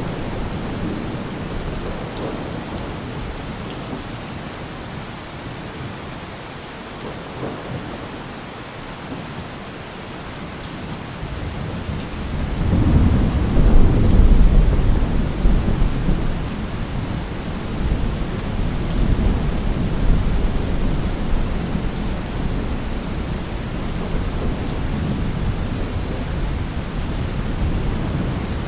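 Thunderstorm: steady heavy rain with a long roll of thunder that builds about twelve seconds in, peaks soon after, and keeps rumbling lower through the rest.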